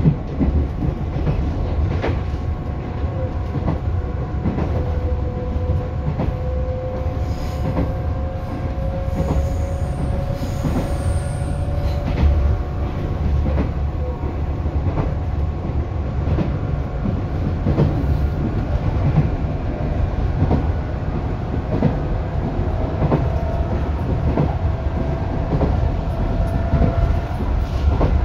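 A JR 211 series electric multiple unit running, heard from on board: a steady low rumble with wheels clicking over rail joints every second or two. A faint whine rises slowly in pitch twice.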